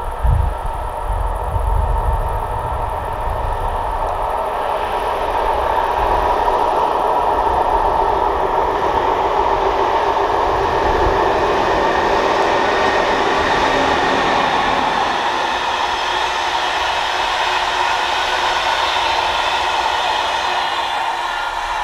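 A freight train of hopper wagons approaching and rolling past on the mainline. Its rumble swells from a few seconds in and then holds steady as the wagons' wheels run over the rails. A low thump comes just after the start.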